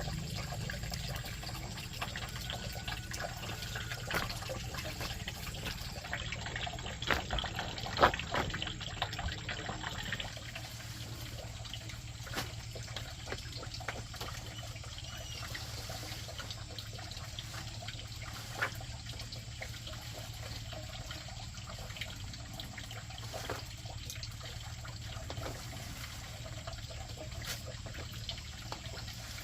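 Water trickling and splashing, with a few sharp knocks, the loudest about eight seconds in; the water gets a little quieter after about ten seconds.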